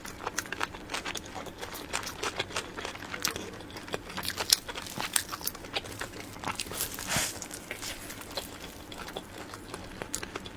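Close-miked eating of soft, cream-filled cake roll: many small wet clicks and smacks of chewing, with one brief louder breathy noise about seven seconds in.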